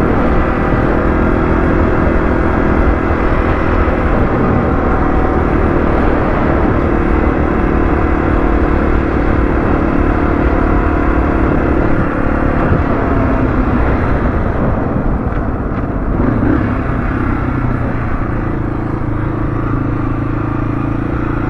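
Motorcycle engine running while being ridden, a steady rumble that shifts to a steadier, lower note about two-thirds of the way through.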